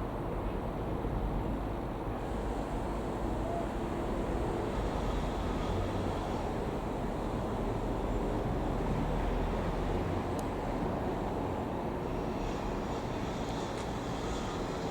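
Comco Ikarus C-42 microlight's piston engine and propeller droning steadily, heard over a continuous low outdoor rumble.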